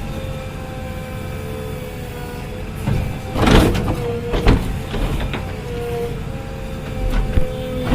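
JCB backhoe loader's diesel engine running under load with a steady hydraulic whine, broken by clanks and scraping from the bucket working the ground a few times: about three seconds in, again near four and a half seconds, and near the end.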